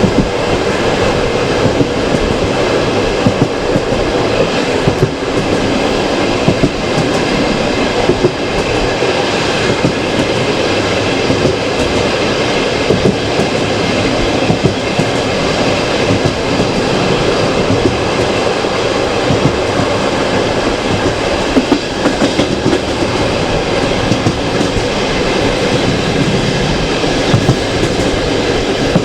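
Passenger train carriage running steadily along the track, with the rumble of the wheels on the rails and irregular sharp clacks over rail joints.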